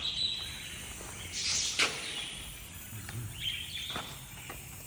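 Birds chirping in the background, with a sharp click about two seconds in and a few faint ticks later.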